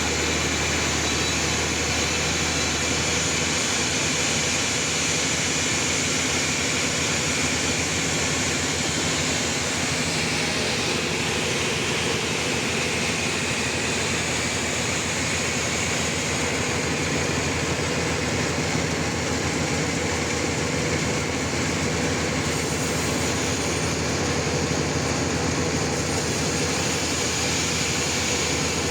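Sawmill running steadily while sawing a trembesi (rain tree) log: a continuous mechanical noise of motor and saw, with a slight shift in its low hum a few seconds in.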